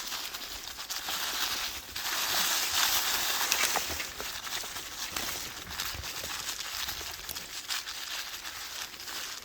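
Footsteps crunching and rustling through dry fallen autumn leaves, a run of crackles and rustles that is loudest for a couple of seconds near the start.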